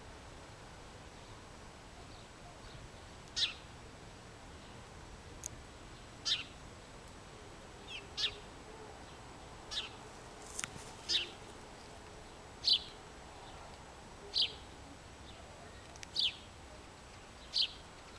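A bird calling over and over, short high chirps that slide downward, repeated about every one and a half seconds over a faint steady background hiss.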